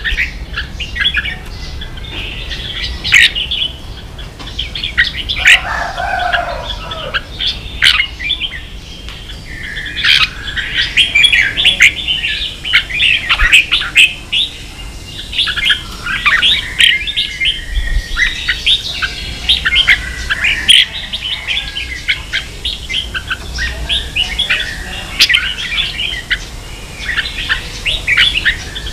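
Red-whiskered bulbul song: a busy, unbroken run of quick, high chirping notes.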